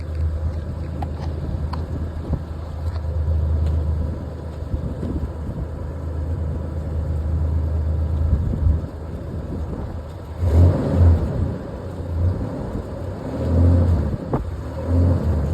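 1988 Ford Ranger engine running steadily through its exhaust with a newly fitted exhaust tip, then revved in several short bursts from about ten seconds in.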